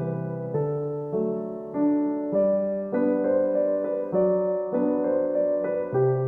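Background music played on piano or electric piano, gentle notes and chords changing about every half second.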